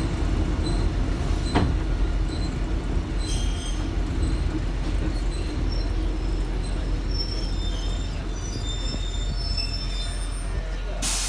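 Kotoden car 120, a vintage electric railcar, running along the line as heard inside the passenger cabin: a steady low rumble of wheels on rail, with thin high wheel squeal coming and going through the middle. A single click about a second and a half in, and a sudden hiss right at the end.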